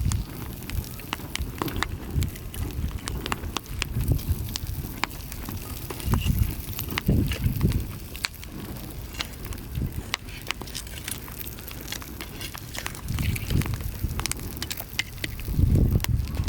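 Wood fire crackling in a fire pit, with many sharp irregular pops and snaps. Low rumbles come and go, loudest near the end.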